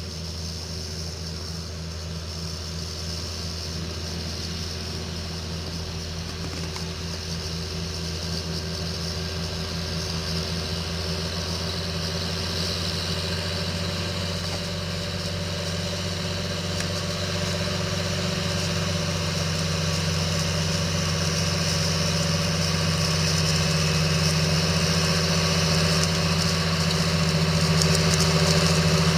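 John Deere 8530 tractor's six-cylinder diesel engine running steadily while it pulls a cultivator through the soil, growing gradually louder as it approaches.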